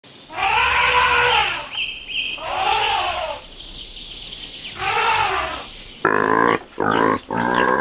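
Three long farm-animal calls, each rising and then falling in pitch. From about six seconds in they give way to a pig's rapid run of squealing grunts.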